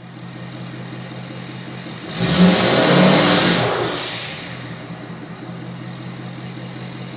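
2017 Ford F250's 6.7-litre Power Stroke turbo-diesel V8 through a 5-inch Flo-Pro straight-pipe exhaust, idling, then revved once about two seconds in and settling back to idle. A high whistle falls away as the revs drop.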